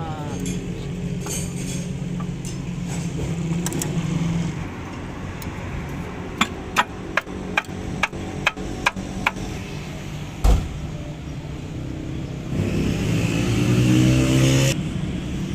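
A motor vehicle engine running steadily, with a quick run of about nine sharp knocks, then one heavy thump. Near the end the engine speeds up for a couple of seconds and drops back.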